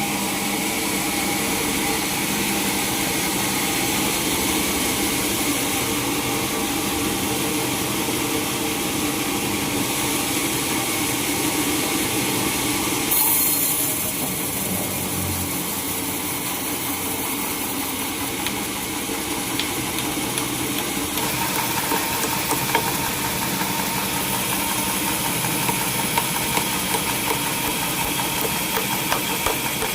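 Sawmill machinery running steadily with an engine-like drone, a brief louder rush about thirteen seconds in, a change in tone around twenty-one seconds, and light irregular clicks through the last third.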